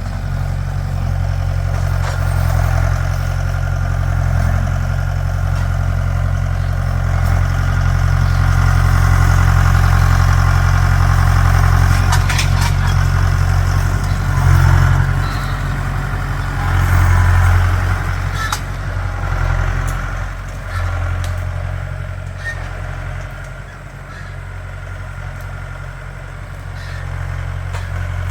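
Mahindra tractor's diesel engine running while working, its sound swelling and easing as the load changes. A few sharp knocks or clanks come through around the middle.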